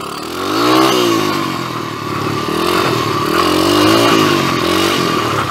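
2007 PitPro 140cc pit bike's single-cylinder four-stroke engine under way on a dirt trail, revving up about a second in, easing off, then revving up again for a couple of seconds before dropping back.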